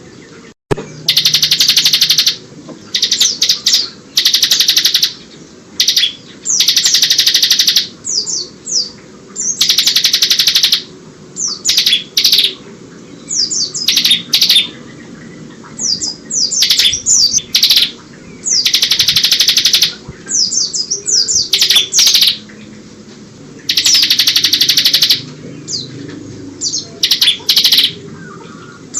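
Ciblek (bar-winged prinia) singing almost without pause: fast, high trills about a second long alternate with quick runs of sharp chirps. Its song includes borrowed phrases of the Oriental white-eye (pleci).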